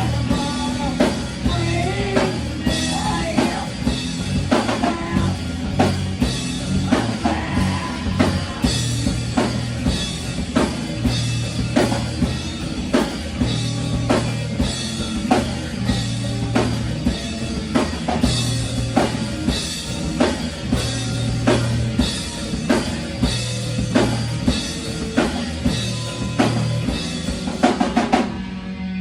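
Rock band playing live: a drum kit keeps a steady beat of about two hits a second with bass drum and snare, over bass guitar notes. The drumming stops near the end.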